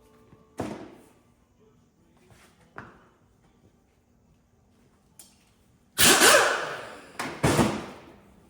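A sharp knock, a fainter knock, then two loud bangs that ring on and fade.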